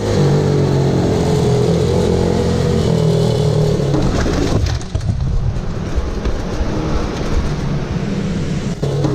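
Pit bike's small single-cylinder engine running hard on track, its pitch holding and wavering slightly, then turning rougher and noisier from about halfway.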